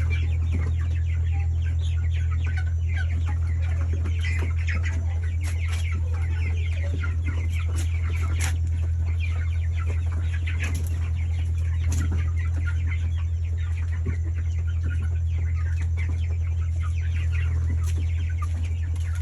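A flock of month-old broiler chickens calling, many short overlapping peeps and clucks, over a steady loud low hum.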